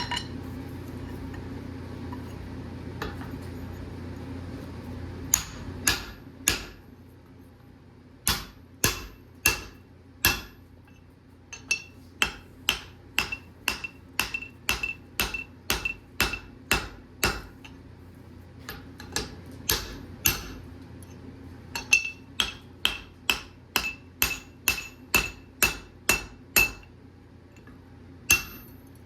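Forging hammer striking a hot bar of steel on an anvil in runs of quick blows, about two a second, each strike with a bright metallic ring, with short pauses between runs. For the first five seconds or so there is a steady rushing noise, which stops when the hammering starts.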